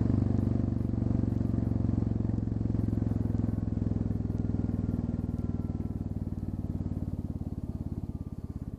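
Royal Enfield Classic 350's single-cylinder engine running at a steady speed through an open pipe with the muffler tip removed, the exhaust pulses loud and even. The level eases slowly downward toward the end.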